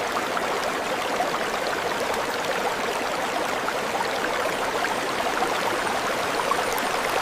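Steady rain falling, a dense patter of many small drops that cuts off sharply at the end.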